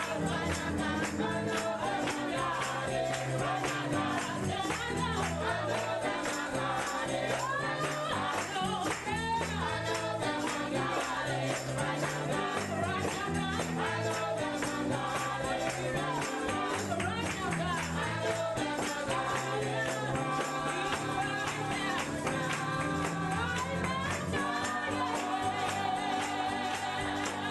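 Gospel music with a choir and congregation singing over a steady beat, with tambourine shaken throughout.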